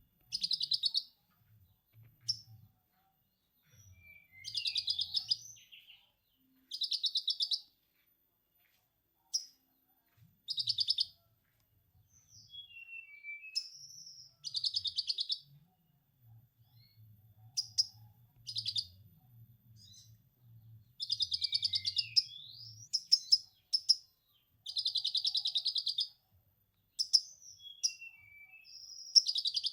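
A konin singing: repeated bursts of rapid chattering, each one to two seconds long, in the style of a lovebird's 'ngekek', mixed with short whistled notes that slide in pitch. A faint low hum runs underneath.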